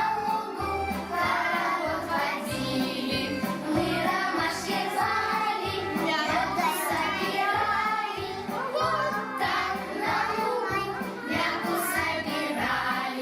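Children singing a song over a backing track with a steady beat.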